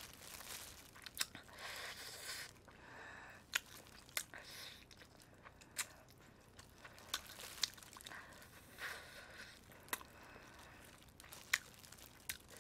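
Faint eating sounds: chewing roast chicken and tearing the meat off drumsticks with plastic-gloved hands, with crinkling of the gloves and the foil liner. Scattered sharp clicks of biting and chewing through it.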